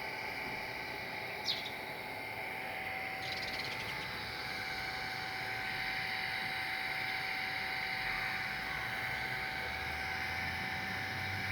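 A bird chirping briefly twice, once sharply about a second and a half in and again, buzzier, just after three seconds, over a steady background hum.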